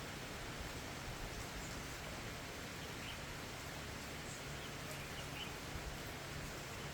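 Steady hiss of falling rain, with a few faint, short bird chirps in the middle.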